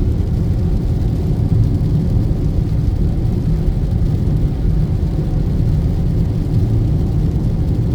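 Steady road and engine noise inside a moving car's cabin, a constant low rumble with no distinct events.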